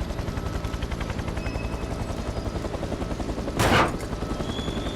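Cartoon helicopter rotor sound effect: a steady, rapid chopping beat, with a short loud whoosh about three and a half seconds in.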